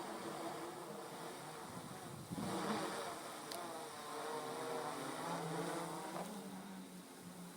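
Homebuilt quadcopter's brushless motors and propellers buzzing, the pitch wavering up and down with throttle corrections, louder through the middle, settling into a steadier hum near the end.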